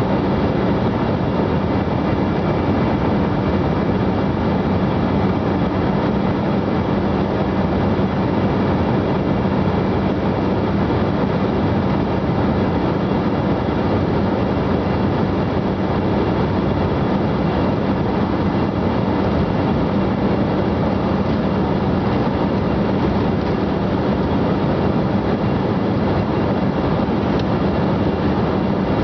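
Steady cabin noise of an airliner in flight: an even rush of airflow and engine noise with a constant low hum, unchanging throughout.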